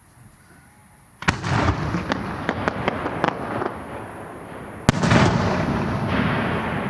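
Fireworks bursting: a sharp bang about a second in, followed by a run of crackling pops. A second sharp bang comes near the five-second mark, followed by a rolling rumble that slowly fades.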